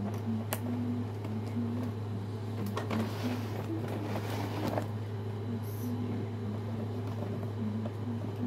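Packaging of a boxed toy robot being handled: a few sharp clicks and a rustle of plastic and cardboard about three to five seconds in. Over a steady low hum, with faint murmuring voices behind.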